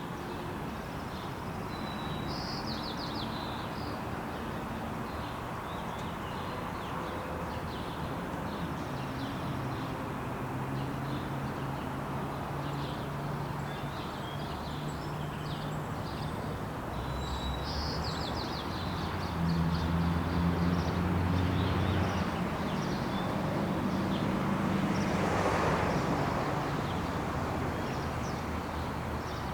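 Loaded coal train with SD70ACE diesel locomotives running through, a steady engine drone over a constant rumble, louder in the second half. Birds chirp throughout.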